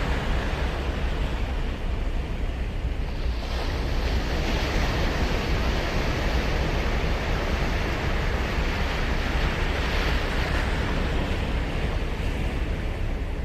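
Surf breaking and washing up a sandy beach on Sagami Bay. A wave's rush swells about three seconds in and eases off near the end.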